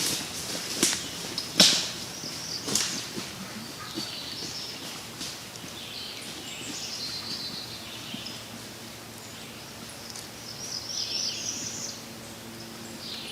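A few sharp crackles in the first three seconds, like steps in dry leaves, then small songbirds chirping on and off in the woods.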